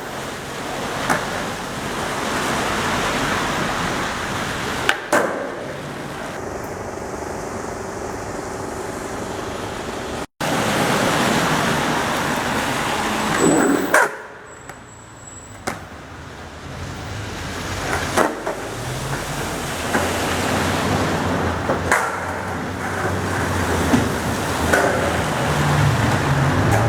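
Skateboard wheels rolling over pavement in a steady rush that swells and fades, with sharp clacks of the board hitting the ground several times.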